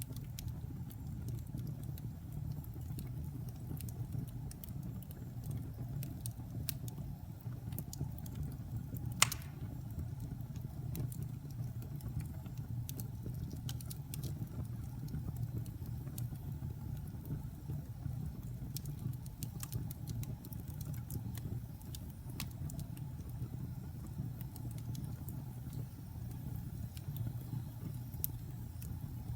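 Wood fire burning in a fireplace: a steady low rumble with scattered crackles, and one sharp, loud pop about nine seconds in.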